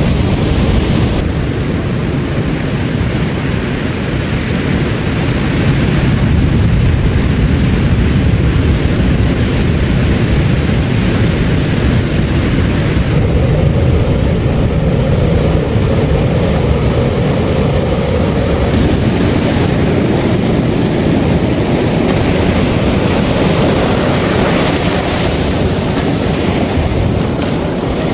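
Ocean surf washing steadily onto a beach, a continuous noisy roar with wind buffeting the microphone.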